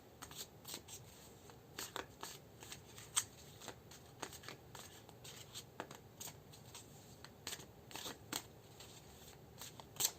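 Tarot cards being shuffled and handled: faint, irregular snaps and clicks of the cards, with a sharper one about three seconds in and another near the end.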